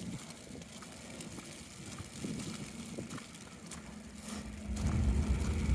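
Wind rumbling on the microphone, swelling into a stronger gust about four and a half seconds in as the wind picks up.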